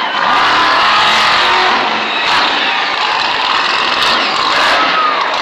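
Monster truck engine running loud, a dense steady roar.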